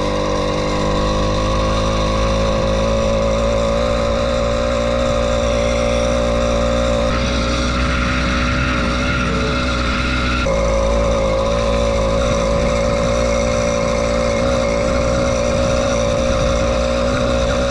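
Two-stroke 80cc bicycle engine running steadily under way, a buzzy pitched engine note. Its note shifts for about three seconds midway, then settles back.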